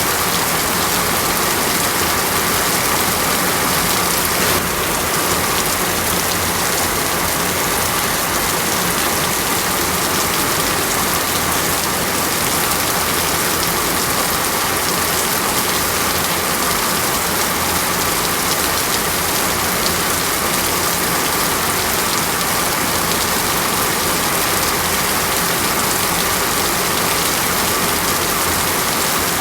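Heavy rain falling steadily: an even, unbroken hiss of countless drops with no thunder.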